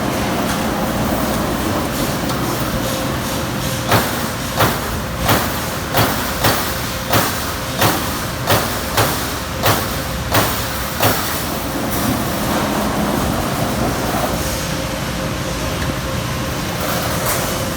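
1997 33-ton Amada Pega 357 CNC turret punch running with a steady hum, then striking a run of about a dozen punch hits, roughly one and a half a second, from about four seconds in to about eleven seconds in.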